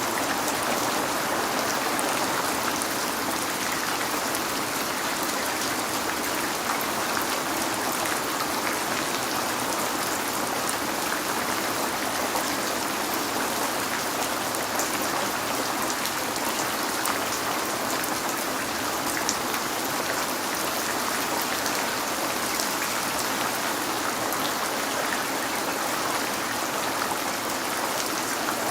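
Steady rain falling and pattering on a window, an even hiss with faint scattered drop ticks.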